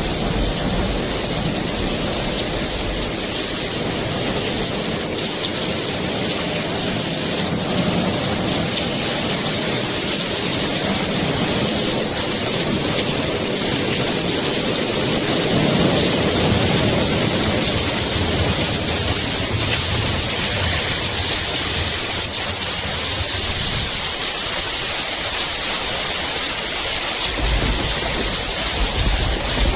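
Steady heavy rain, an even hiss of falling water, with low rumbles of distant thunder at the start and again near the end.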